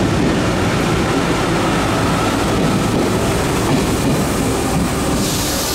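RER B electric commuter train running along the station platform: a steady rumble of wheels on rail and traction noise. A high hiss comes in near the end.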